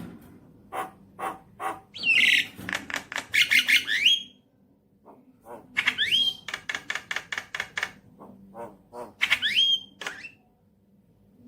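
Javan myna (jalak kebo) singing: three phrases of rapid harsh clicking notes mixed with quick rising whistles, with short pauses between.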